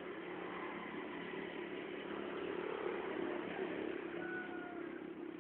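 A steady, engine-like hum with low droning tones, slightly louder in the middle. A faint, brief whistle comes about four seconds in.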